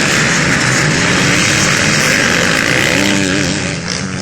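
Several motocross bikes racing past at high revs, their engine notes bending in pitch about three seconds in, then fading near the end.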